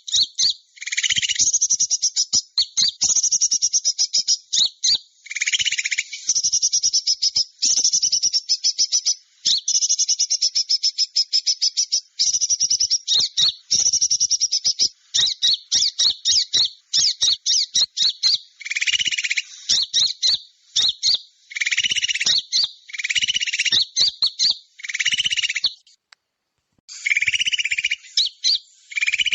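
Bird-lure (pikat) recording of small birds calling: dense, rapid, high-pitched chirping trills in bursts of one to two seconds, broken by a brief pause near the end.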